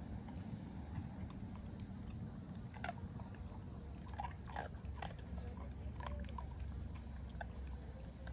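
Blue Staffordshire bull terrier chewing and crunching a meal of chicken necks and kibble: faint, irregular crunches and clicks over a steady low hum.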